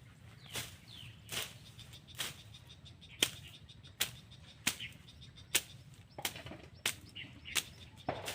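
A series of sharp knocks, roughly one or two a second and uneven in loudness, with a few short bird chirps among them over a low steady hum.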